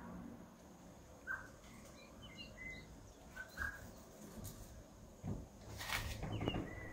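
A few faint, short bird chirps, seconds apart, with brief scratchy noises near the end.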